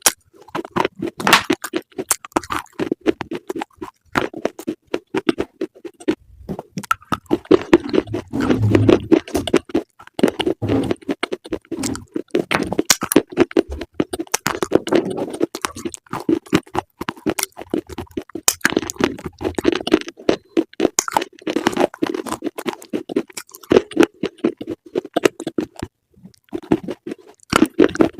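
Close-up chewing of crunchy food: a dense, irregular run of crisp crunches and clicks, with a steady lower chewing sound beneath.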